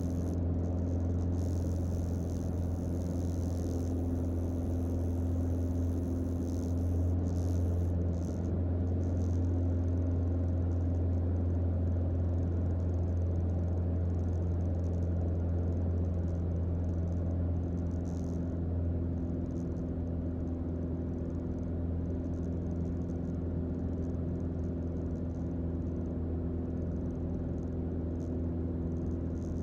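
Cockpit drone of a Mooney M20J's four-cylinder Lycoming IO-360 engine and propeller on final approach to land: a steady low hum that drops slightly in level about two-thirds of the way through.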